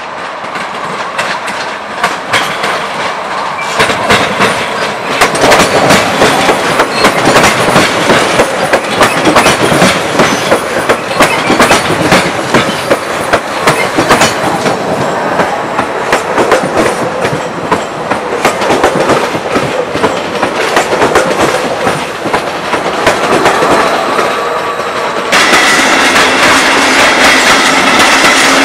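Red Stadler FLIRT electric multiple unit running over station points, its wheels clattering across the switches and rail joints in a rapid string of clicks, growing louder over the first few seconds. Near the end the sound cuts to a blue electric locomotive hauling coaches past, steadier and brighter.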